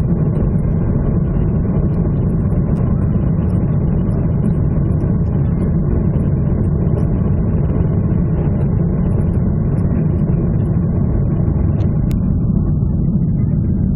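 Steady low rumble of a Ryanair Boeing 737's jet engines and airflow, heard inside the cabin, with a single sharp click about twelve seconds in.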